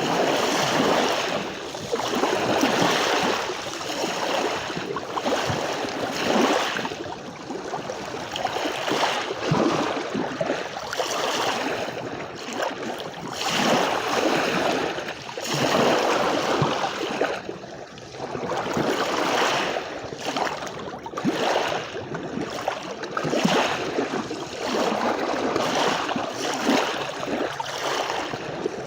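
Sea waves breaking and washing up a beach, the surf swelling and easing every two to three seconds.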